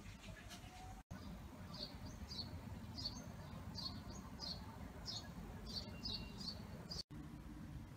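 A small bird chirping outdoors: a run of short, high chirps, about two to three a second, starting just under two seconds in, over a steady low outdoor rumble. The sound cuts out for a moment about a second in and again near the end.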